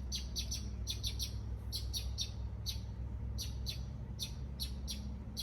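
A pet bird chirping over and over in short, high chirps, several a second, in quick runs. A low steady hum sits underneath.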